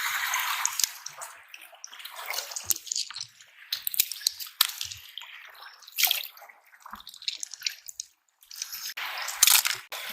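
Seawater washing and splashing over shore rocks in uneven surges, with dripping and scattered sharp clicks.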